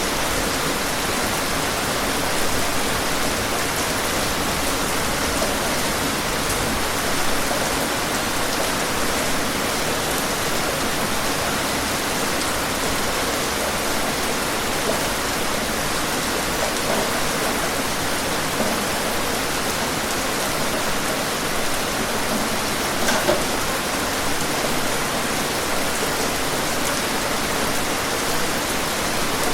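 Steady heavy rain, an even hiss, with a few slightly louder drop ticks here and there.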